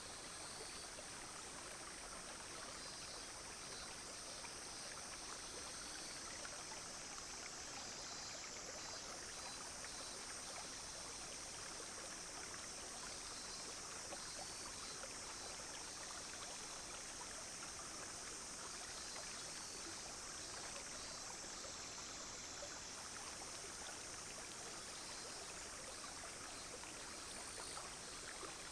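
A small, clear brook flowing steadily, with a continuous high-pitched drone of cicadas and other insects above the water.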